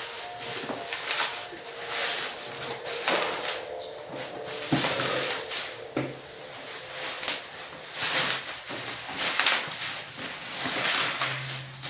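Thick plastic packaging rustling and crinkling as it is handled and pulled open, with a couple of sharp knocks about five and six seconds in.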